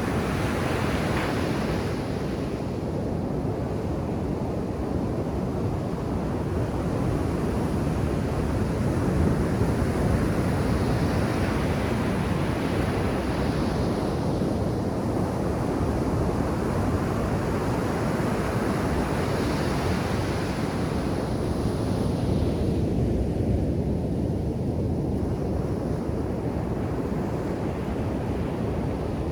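Ocean surf on a sand beach: a steady low rush of waves, with the hiss of breaking water swelling and fading three times.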